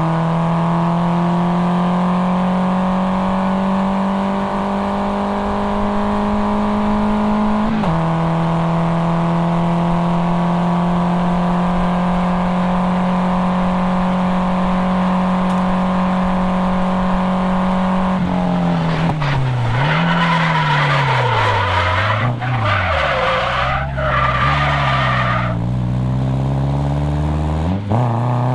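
Nissan 240SX's KA24DE four-cylinder engine pulling hard on track, its pitch climbing slowly, with an upshift about eight seconds in. Past the middle the revs fall and waver while the tires squeal through a corner for about five seconds, and the engine pulls again near the end.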